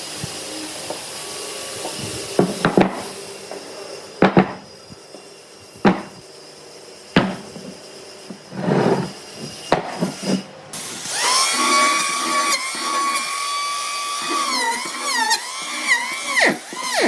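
Workshop sounds: scattered knocks and taps of wood over a steady hiss, then about two-thirds of the way in a power tool motor starts with a whine that holds steady and then wavers up and down as it is worked against the wood.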